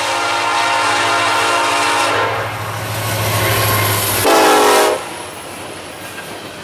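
Diesel freight locomotive's air horn: a long blast that stops about two seconds in, then a short, louder blast at a lower pitch about four seconds in. A low diesel drone runs underneath until the short blast.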